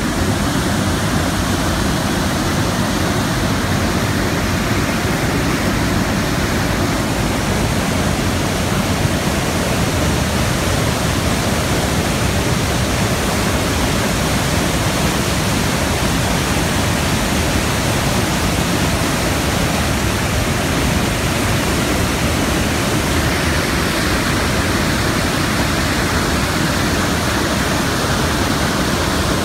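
Floodwater pouring over Lake Clementine Dam, a steady, loud rush of falling water.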